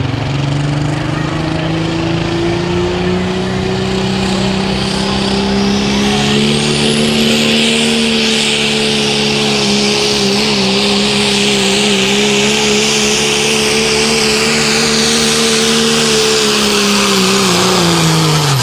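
Diesel 4x4 pickup truck's engine at full throttle pulling a sled, its revs climbing over the first several seconds and then held high, with a high rushing noise building through the middle. The revs fall off sharply at the very end as the run finishes.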